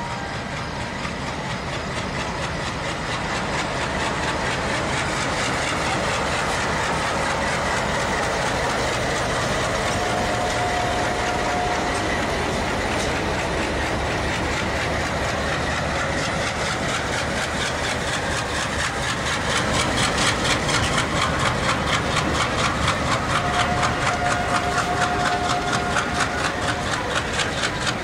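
Indian Railways passenger train rolling past along a station platform: a steady rumble of the coaches. About two-thirds of the way in, a rhythmic clickety-clack of wheels over rail joints grows louder.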